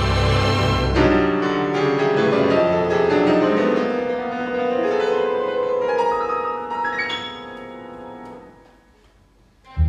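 Classical piano music with strings. Deep sustained low chords ring for about the first second, then a higher, quieter passage gradually dies away. A loud low chord strikes right at the end.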